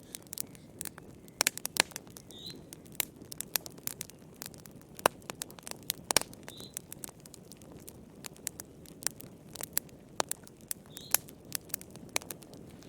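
Wood fire crackling in a fireplace: irregular sharp pops and snaps over a soft low hiss of burning. A faint short high chirp comes through every few seconds.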